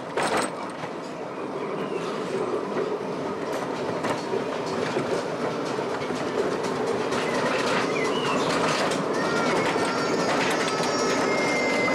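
Miniature railway train running along the track, its wheels clicking over the rail joints, growing gradually louder. Thin high squealing tones come in over the last few seconds.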